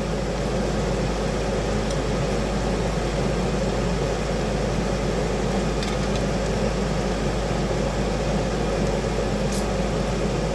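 Bacon sizzling in a frying pan, a steady crackling hiss with a few faint sharper pops.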